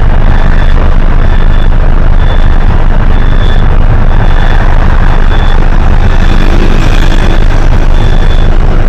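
Hino HS8JRVL city bus running loud, its diesel engine noise heavy and steady from inside the bus. A short high beep repeats about once a second throughout.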